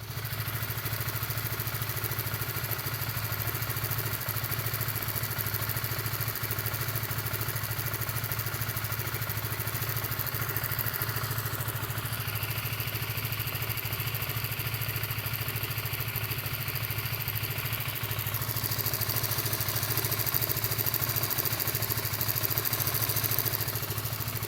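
Honda CBR150R (2016) single-cylinder engine idling steadily, with the strange engine noise its owner is pointing out; it gets a little louder for a few seconds near the end.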